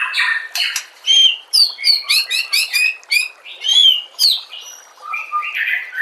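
Songbird song: a fast run of sharp whistled notes, most sweeping down in pitch, with a few harsh, raspy notes among them.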